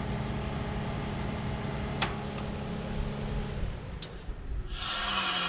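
Carrier Performance central air conditioner shutting down: its steady hum stops about three and a half seconds in, with two sharp clicks about two seconds apart. Near the end a loud hiss rises.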